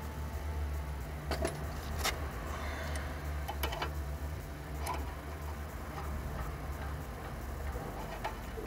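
Sharp metallic clicks and taps, about six of them at uneven intervals, from working at a brake caliper's upper guide pin that is seized fast in its bore. A steady low hum runs underneath.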